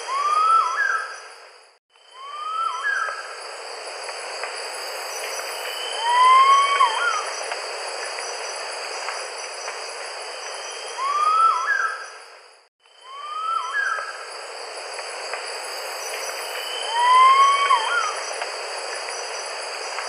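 Six short rising whistled bird calls, each an upward slide ending in a quick hooked note, a few seconds apart, over a steady high insect drone. The whole background drops out briefly twice, about two seconds in and again past the middle.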